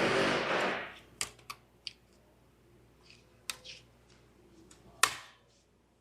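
Wiring harness connectors being unlatched and pulled apart by hand: a rustling scrape lasting about a second, then scattered sharp plastic clicks, the loudest about five seconds in.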